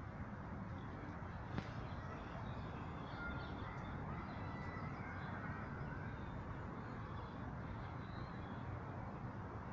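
Crows cawing over a steady background rumble, with a single sharp click about a second and a half in.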